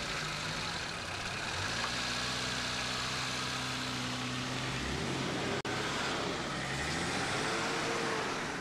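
A car engine running steadily, its pitch rising and falling a couple of times in the second half. There is a brief break in the sound just past halfway.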